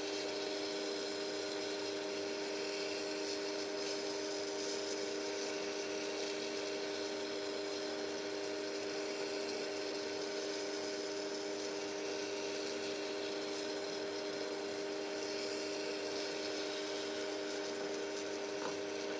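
Microwave oven running with a steady electrical hum and fan noise.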